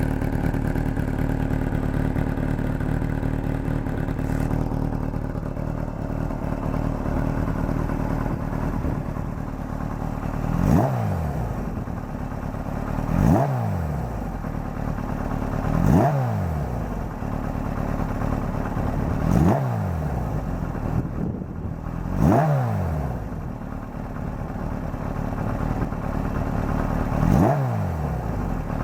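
Kawasaki Z1 air-cooled inline-four idling through an NGC aftermarket exhaust with 47.5 mm header pipes, then blipped six times, each rev rising and dropping quickly back to idle. The idle carries a light clattering rattle, which the owner later traced to loose bolts on the starter one-way clutch and the generator.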